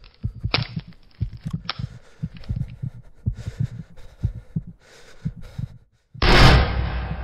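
Low, irregular heartbeat-like thumping with scattered clicks, which stops dead just before six seconds; a moment later a single loud gunshot bang that dies away over a second or so.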